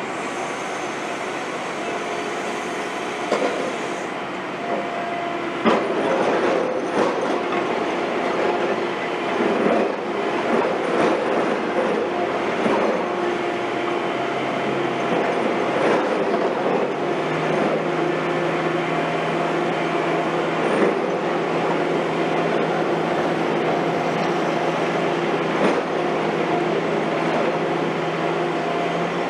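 Heavy construction machinery running steadily, with repeated metallic clanks and knocks. A steady engine tone steps up in pitch about halfway through.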